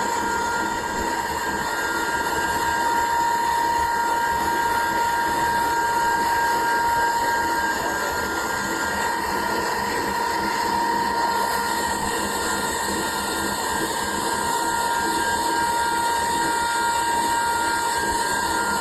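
Machine running steadily in a motor repair workshop, a constant drone with a high whine and several steady tones that stay level throughout.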